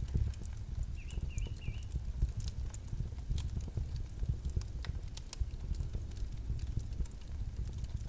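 Campfire burning with irregular crackles and pops over a low rumble. A bird gives a short three-note chirp about a second in.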